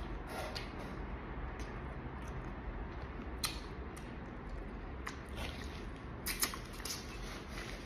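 Close-up eating of boiled crawfish: scattered small clicks and crackles of shells being handled and chewed, with a little cluster of sharper cracks about six and a half seconds in.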